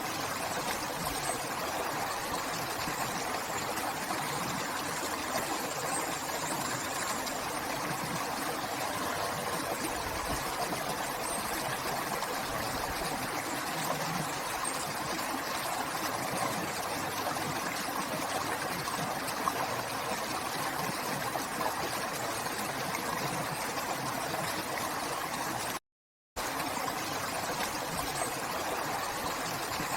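River water flowing in a steady, even rush, with no letup. Near the end the sound cuts out completely for about half a second, then resumes.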